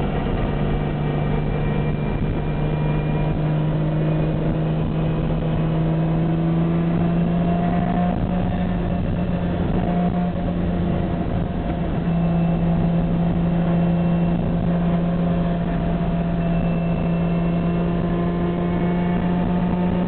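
Lamborghini Miura's transversely mounted V12 running under way, heard from inside the cabin. It is loud and steady, its pitch climbing slowly over the first half and then holding.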